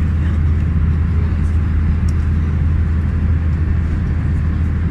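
Steady engine and cabin rumble inside an Airbus A320 airliner, heard from a window seat: a constant deep drone with an even hiss above it.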